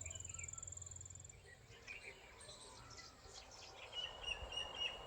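Birds chirping faintly: a high, thin, steady trill that stops about a second in, scattered short chirps, then a lower trilling call near the end.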